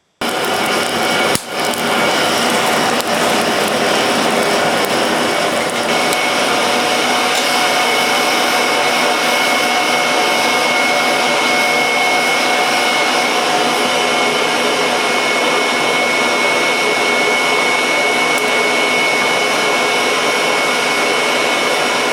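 Forced-air blower on a bronze-melting furnace, running with a steady loud rush that starts suddenly. There is a single knock about a second in, and a thin high tone comes in about six seconds in.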